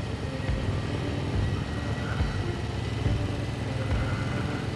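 Motorcycle engine running steadily at cruising speed on a winding road, a low rumble with road and wind noise over it.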